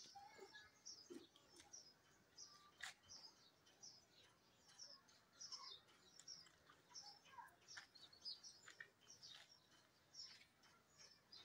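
Birds chirping faintly: many short, high-pitched chirps in quick, irregular succession.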